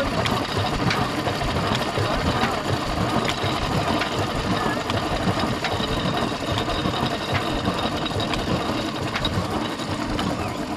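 Old Ruston diesel engine at a tubewell running steadily, a dense mechanical clatter with occasional sharper clicks.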